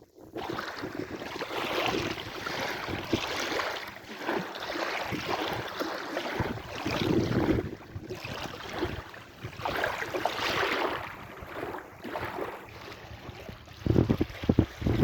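Sea waves washing in and drawing back, the rush of water swelling and fading every few seconds. Wind buffets the microphone with a low rumble near the end.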